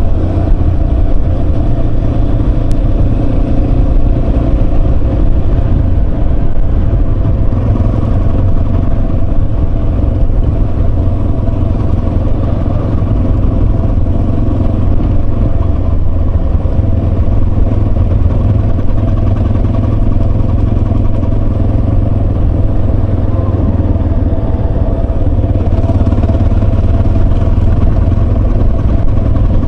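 Yamaha Serow 250's air-cooled single-cylinder engine running at a fairly steady speed on the road, with a constant low rumble.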